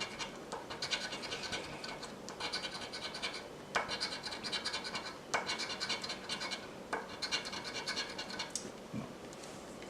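A Lucky Dog scratch-off lottery ticket being scratched: runs of quick scratching strokes across the coating, with a few sharper scrapes between them.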